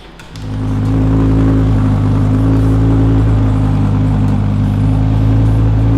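Twin-turbo Lamborghini Huracán V10 idling steadily, its sound coming in about half a second in and holding level.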